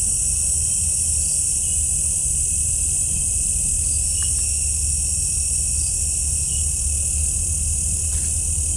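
Night-time chorus of crickets and other insects: a steady high-pitched trill with faint repeated chirps about once a second, over a steady low rumble.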